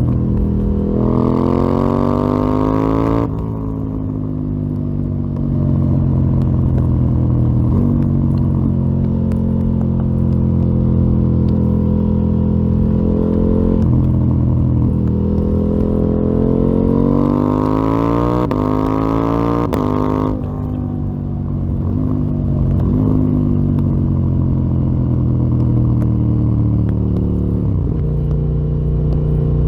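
KTM 890 Duke R's parallel-twin engine through a full Akrapovic exhaust system, ridden hard: the revs climb steeply in the first three seconds and cut off as the throttle shuts, then it runs steadily. A second, longer climb from about the middle ends in another sudden drop, followed by a few quick jumps in pitch from gear changes near the end.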